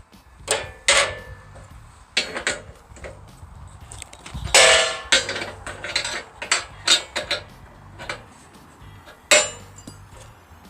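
Irregular metal clanks and knocks from tools and parts being handled on the sawmill track during leveling. The loudest comes about four and a half seconds in and rings briefly.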